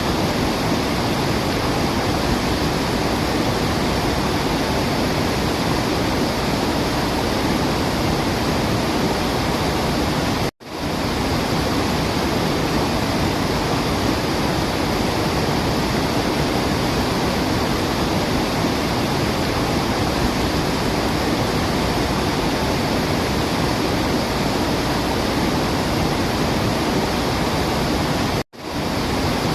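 Waterfall, water rushing in a steady even roar. The sound cuts out for an instant twice, about ten seconds in and near the end.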